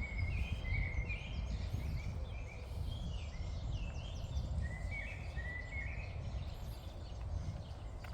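Outdoor ambience: birds chirping in short warbling phrases over a steady low rumble, and the chirping stops about six seconds in.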